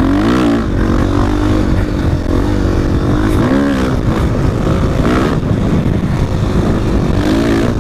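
450cc four-stroke dirt bike engine pulling under throttle while riding, its revs rising and falling several times through the gears.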